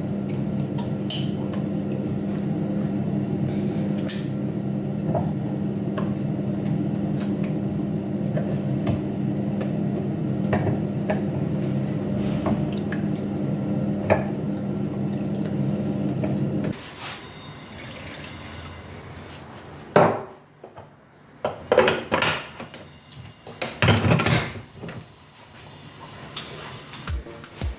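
A kitchen appliance motor hums steadily and cuts off suddenly about 17 seconds in. After that, dishes, pots and utensils clatter and knock several times.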